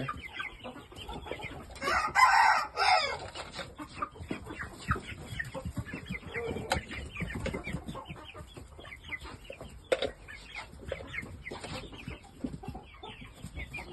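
Penned young Shamo and Koshamo game fowl calling: a stag crows once, loudly, about two seconds in, and the other birds cluck and chirp throughout.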